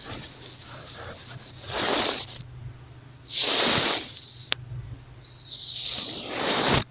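Makeup brush bristles sweeping over an earphone used as the microphone, making hissy swishes, with three louder strokes. The last stroke cuts off suddenly near the end.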